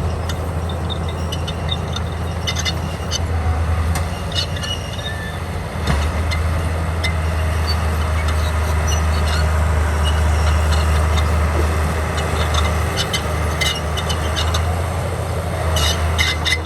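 Komatsu D41P bulldozer's diesel engine running steadily under load, with scattered metallic clanks and rattles; the engine note dips briefly and picks up again about six seconds in.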